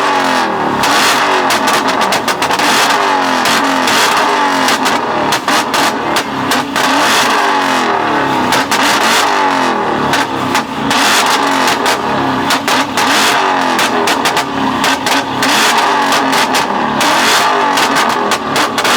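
A car engine revved over and over, its pitch climbing and dropping about once a second, with many sharp exhaust pops and crackles between the revs, the kind of tune that shoots flames from the exhaust.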